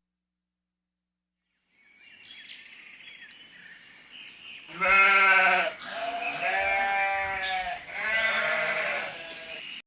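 Sheep bleating three times in a row, the first bleat the loudest, over faint outdoor background noise.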